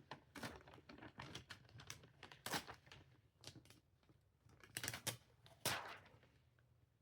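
Faint crinkling and crackling of rhinestone transfer tape being handled and pressed down over a template, in short, irregular rustles, the loudest about two and a half seconds and five to six seconds in.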